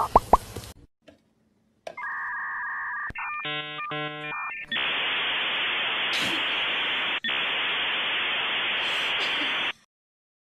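A string of rapid pops ending in the first second, then electronic sound: a steady tone, a run of quickly alternating beeps, and about five seconds of steady static hiss that cuts off suddenly near the end.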